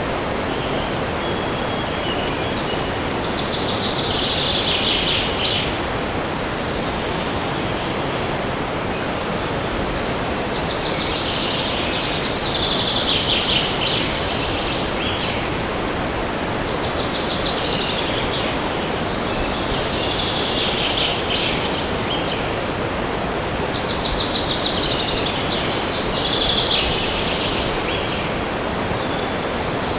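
Steady wind rushing through forest trees, with a songbird singing short trilled phrases every few seconds over it.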